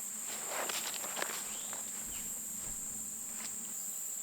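Steady high-pitched insect chorus, typical of crickets, with a few rustles and sharp clicks in the first second and a half.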